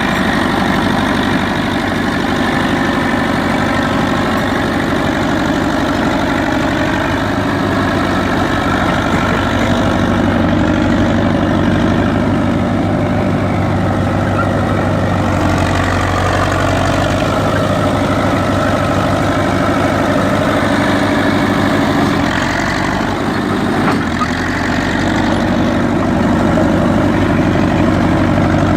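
1956 International TD6 crawler dozer's gas-start diesel engine running steadily at idle. About 23 seconds in it dips briefly, then runs a little louder to the end.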